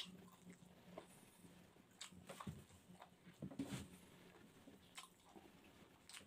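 Faint chewing with scattered wet mouth clicks and lip smacks, a cluster of them about three and a half seconds in.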